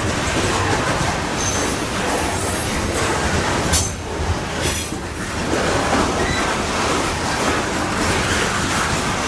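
Canadian Pacific coal train's cars rolling past on the rails with a steady rumble and brief, faint wheel squeals. A single sharp clack a little under four seconds in.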